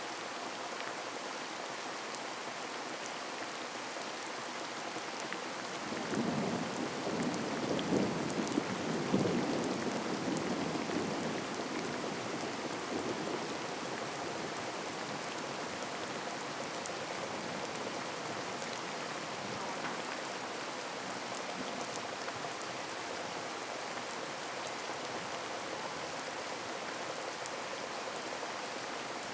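Steady downpour of rain, with a roll of thunder that starts about six seconds in, swells and fades over several seconds.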